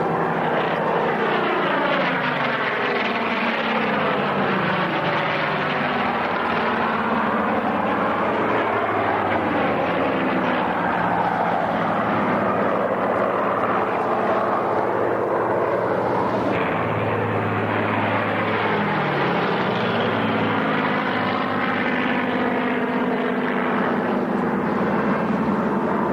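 Propeller-driven aircraft flying past, a continuous engine drone whose tone sweeps up and down as it moves across the sky.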